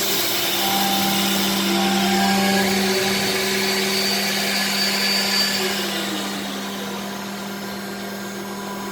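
Vacuum loader motor running at full suction, pulling plastic pellets up into a dryer hopper, then switching off about six seconds in and winding down with a falling pitch. A steady lower hum carries on underneath.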